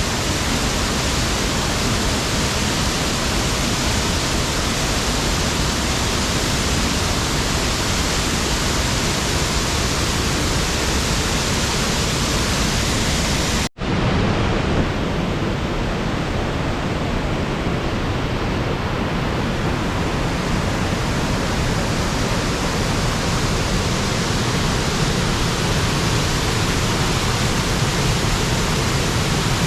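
Waterfall: a loud, steady rush of falling water. There is a split-second gap about halfway through, after which the rush carries on, a little duller at first.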